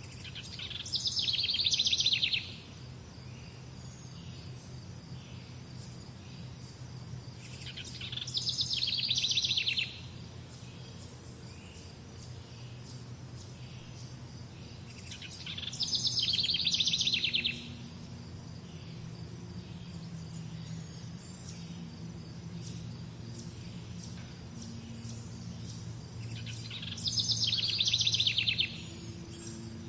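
A songbird singing the same rapid trilled phrase four times, each about two seconds long and several seconds apart, over a faint low steady hum.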